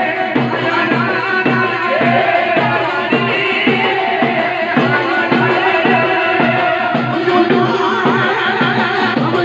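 Dhol drum beating a fast, steady rhythm under a melody line that wavers in pitch: loud live folk music.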